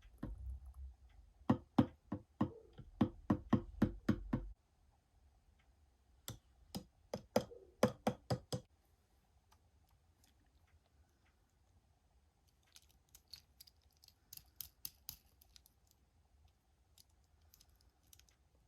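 Small plastic toys and packaging being handled, making quick clusters of sharp clicks and taps: two loud runs in the first half and a fainter run later.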